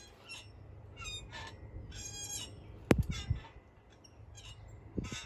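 Birds calling: scattered short high chirps and a harsh, squawking call about two seconds in, with a single sharp click just before the three-second mark.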